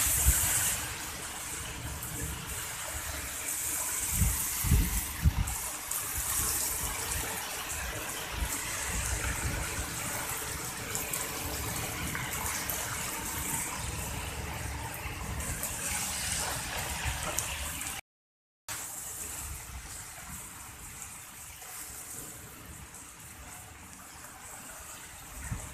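Heavy rain pouring down in a steady hiss, with a few low rumbles about four to six seconds in. The sound cuts out briefly about two-thirds of the way through, then the rain goes on a little quieter.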